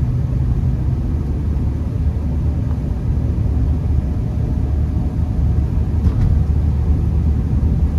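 Honda Accord heard from inside the cabin, driving slowly on a snow-covered road: a steady low rumble of engine and tyres, with a single faint click about six seconds in.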